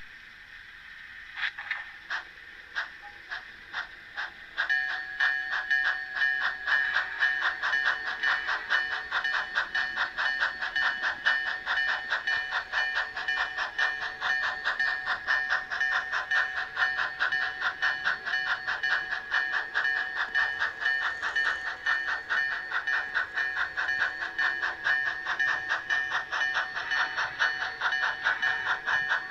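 On30 model train running, likely the No. 3 Shay: a few separate clicks at first, then from about five seconds in a fast, even rhythmic pulsing over a steady high whine.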